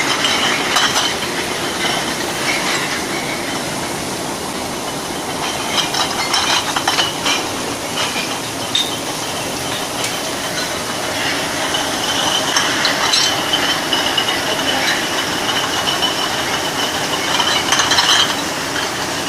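Semi-automatic glass bottle brushing machine running: a steady mechanical whirr and hiss from the spinning brush heads, with frequent clinks and knocks of glass bottles.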